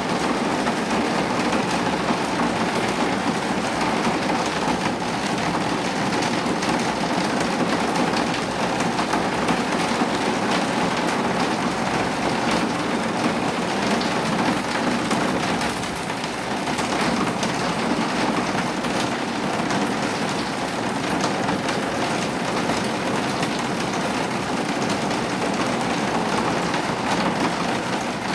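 Rain falling steadily and heavily, a dense continuous patter of drops.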